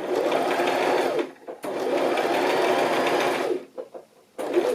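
Electric sewing machine stitching in two runs, one of about a second and one of about two seconds, the motor speeding up and then slowing down in each, with a brief burst near the end.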